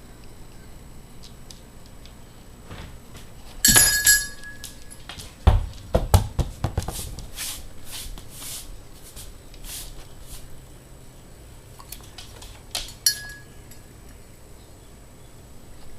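A ringing metallic clink just before four seconds in and again near the end, with a burst of knocks and scuffles between them.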